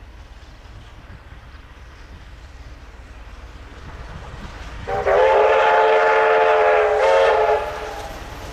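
Whistle of Victorian Railways K class steam locomotive K160, one long blast of about two and a half seconds that comes in suddenly halfway through, over the low rumble of the approaching train.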